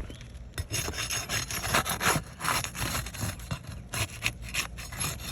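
Gritty scraping and rubbing on asphalt roof shingles, a run of irregular strokes.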